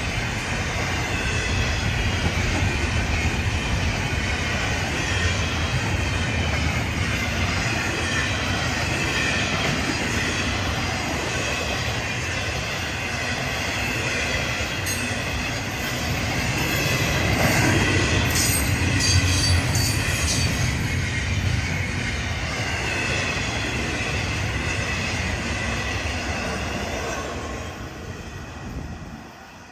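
Florida East Coast Railway double-stack intermodal freight train passing close by: a steady rumble of steel wheels on rail with wavering wheel squeal over it. About two-thirds of the way through it gets louder, with a run of rapid clacks, and near the end the sound drops away.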